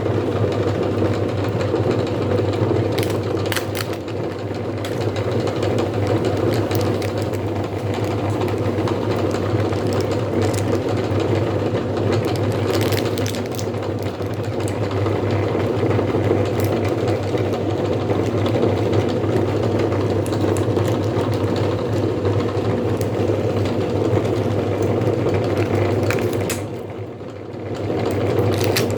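Electric meat grinder running with a steady motor hum, with scattered clicks and crackles from hard grape candy being crushed in it. The sound dips briefly near the end, then picks up again.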